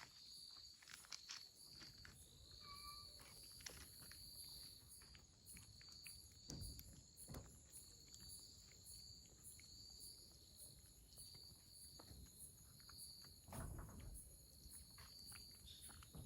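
Faint insects chirping outdoors in a steady pulse about once a second over a continuous high buzz, with a couple of soft low thumps.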